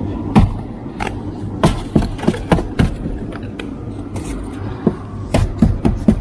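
A snow scraper working snow and ice off a truck windshield: a dozen or so irregular scrapes and sharp knocks. A low steady rumble runs underneath.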